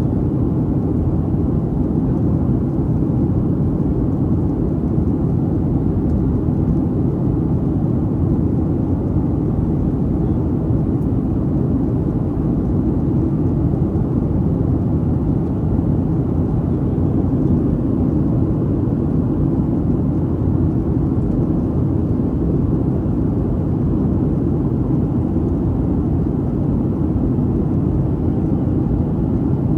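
Steady cabin noise of a Boeing 737-800 heard from a seat behind the wing: its CFM56-7B engines and the surrounding air make an even low rumble that does not change.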